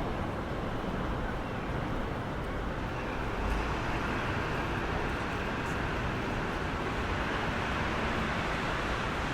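Steady hiss and rumble of city traffic, with no single vehicle standing out.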